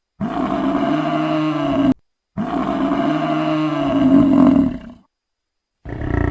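A bull bellowing: two long, drawn-out calls one after the other, then a short, low call near the end.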